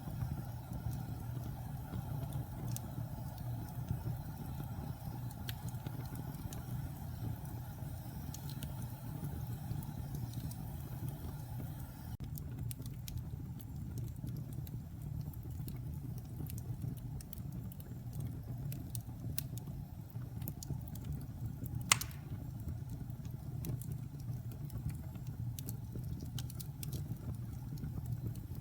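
Logs burning in a fireplace: a steady low rumble of the fire with scattered light crackles, and one sharp pop about three quarters of the way through.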